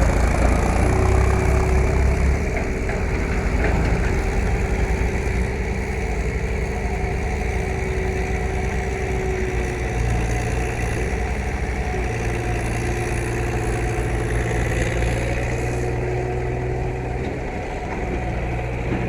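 Case IH JX40T tractor engine running steadily, a little louder in the first couple of seconds.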